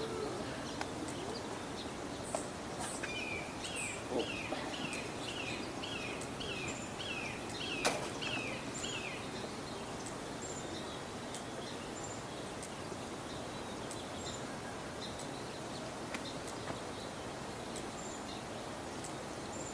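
Outdoor background hum with a small bird calling a run of about a dozen short, falling chirps, about two a second, that stops about nine seconds in. Fainter high chirps and scattered light clicks, with one sharper click near eight seconds.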